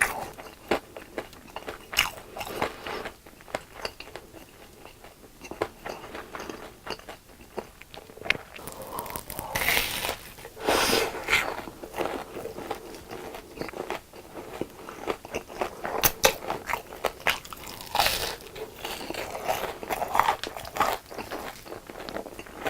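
Close-miked eating of crispy fried food: crunchy bites followed by chewing. The loudest crunches come about 2, 10, 16 and 18 seconds in.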